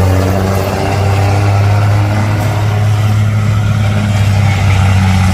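Pulling truck's engine running loud at steady high revs, a strong continuous low note with overtones and little change in pitch.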